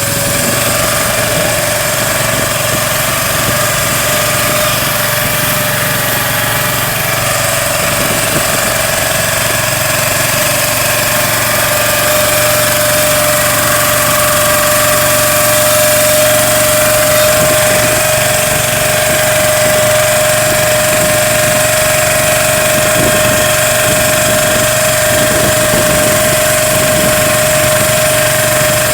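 Small boat engine running steadily at an even speed, with a constant hum that neither rises nor falls.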